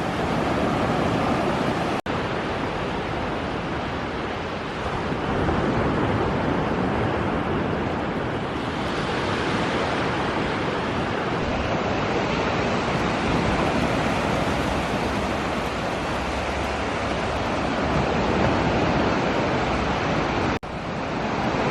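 Steady wash of ocean surf on the beach mixed with wind buffeting the microphone, with two momentary drop-outs, one about two seconds in and one near the end.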